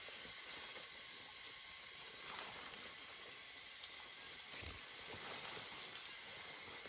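Outdoor field ambience: a steady high hiss, with faint rustles and a soft low thump about halfway through.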